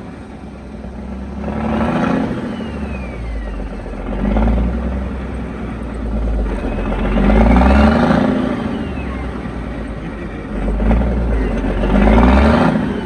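A heavy vehicle's engine rising and falling in pitch about four times over a steady low rumble.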